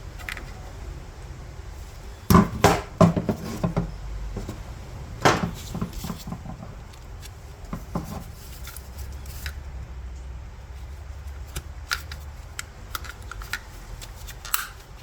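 Fuel pump parts being handled: a quick cluster of sharp clicks and knocks about two seconds in, another knock a few seconds later, then lighter scattered ticks over a low steady hum.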